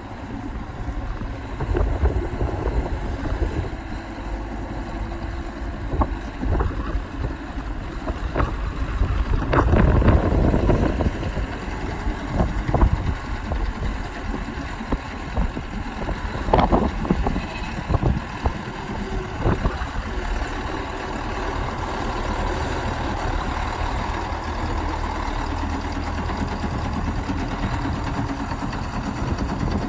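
1987 Ford L8000 truck's engine running at idle, a steady low rumble, with a few short knocks in the first two-thirds.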